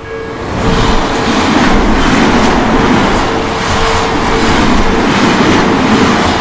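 Odakyu electric train passing close over a level crossing, its wheels clacking over the rail joints at a steady rhythm. A Japanese level-crossing bell rings on through it in a repeating tone.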